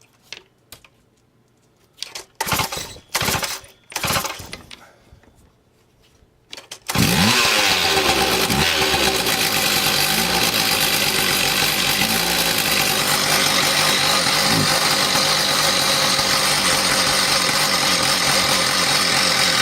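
Stihl TS 460 concrete saw's two-stroke engine being pull-started cold on choke: a few short pulls of the starter cord, then it catches about seven seconds in and runs steadily and unloaded, with no blade fitted.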